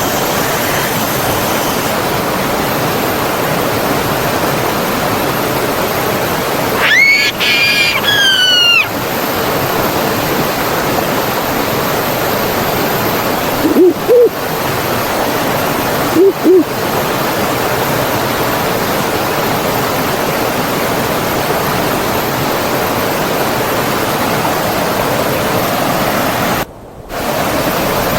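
Stream or small waterfall rushing steadily. A bird sings a quick run of high falling whistles about seven seconds in, and two short low double calls follow a few seconds apart; near the end the water sound briefly drops out.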